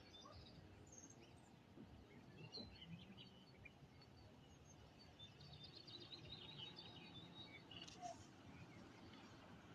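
Faint birdsong: small birds chirping in short high notes, with a rapid trill from about five to seven and a half seconds in, over a low steady background noise.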